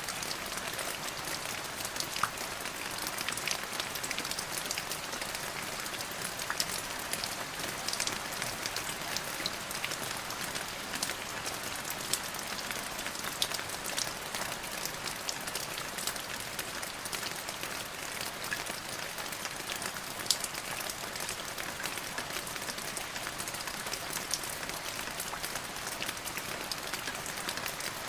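Steady rain falling, an even hiss with many separate drops pattering on a surface.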